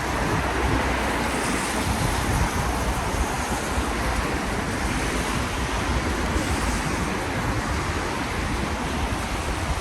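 Steady outdoor street noise in the rain: an even hiss with a low rumble of road traffic and wind on the microphone.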